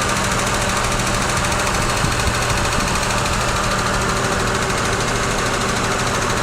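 Mitsubishi Pajero II's 6G72 3.0-litre V6 idling cold, with a steady, regular knock from inside the engine. The knock is newly appeared and not yet diagnosed; the owner also reports the engine has started misfiring.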